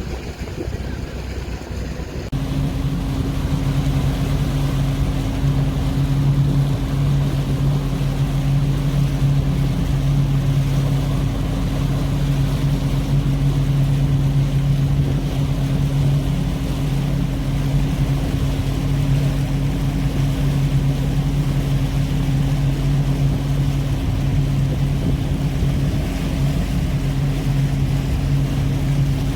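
A motor running at a steady speed, a constant low drone over a rumbling wash, which starts abruptly about two seconds in.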